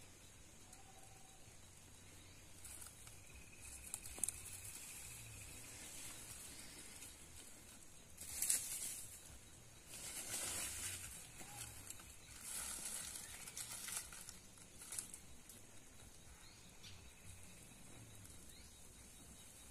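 Dry straw and twigs being handled and arranged for a campfire: rustling that comes in several short bursts over a faint steady hiss.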